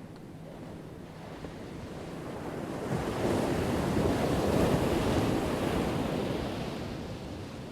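Ocean wave breaking and washing up the shore: the surf rises over a couple of seconds, peaks around the middle, then fades toward the end.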